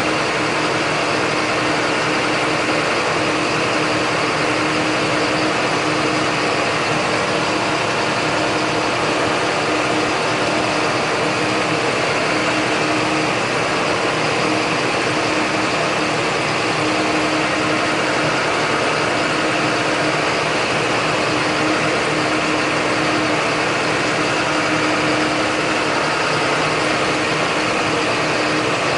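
John Deere 8100 tractor's six-cylinder diesel engine running steadily, with an even hum that holds one pitch throughout.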